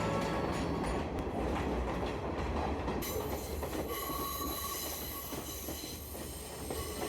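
Passenger train running along the track, a steady rumble of the carriage and wheels on the rails.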